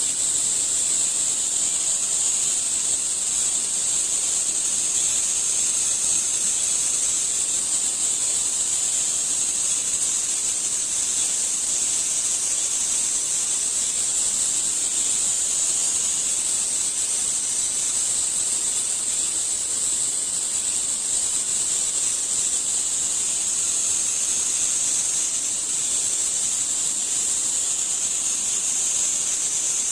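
A steady, high-pitched hiss that holds unchanged throughout.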